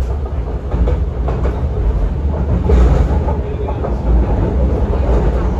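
MTR C-train metro car running at speed, heard from inside the car: a steady low rumble of wheels on the rails with intermittent clacks.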